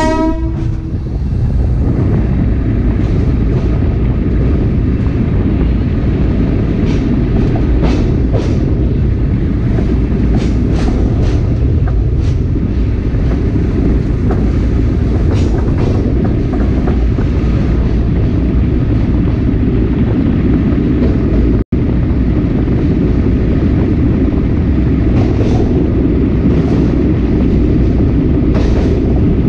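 Sagano Romantic Train running, heard from its leading SK200 passenger car: a steady rumble of wheels on rail with scattered clicks from the track. A train horn is just ending as it begins, and the sound cuts out for an instant about 22 seconds in.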